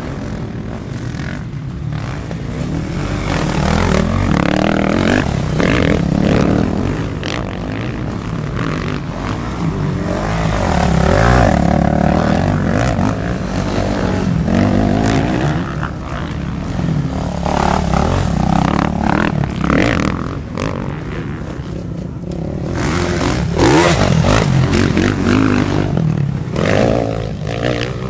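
Motocross motorcycles racing on a dirt track, engines revving hard and dropping back over and over as bikes pass, growing loud several times.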